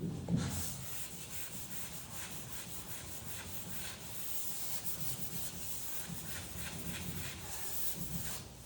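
Hand block sanding on the ute's body panel: abrasive paper on a sanding block rubbed back and forth in a steady run of strokes.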